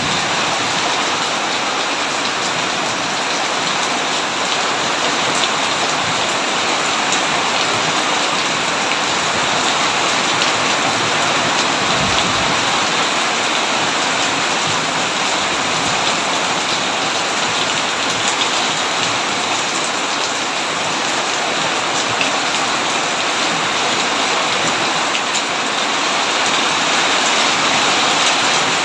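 Heavy rain falling steadily on a tin roof: a dense, even hiss of drops with no letup.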